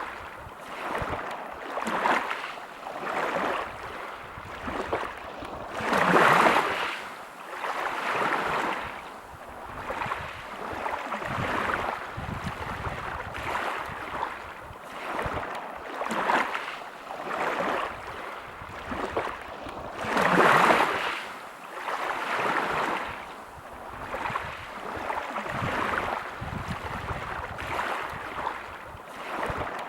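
Sea waves breaking on a pebble beach, coming in as repeated surges, with the loudest two about six seconds in and about twenty seconds in.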